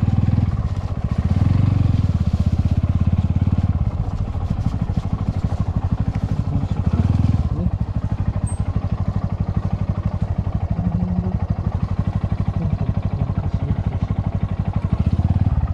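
Motorcycle engine running at low speed, pulsing steadily, with two brief swells in engine sound about a second in and around seven seconds in.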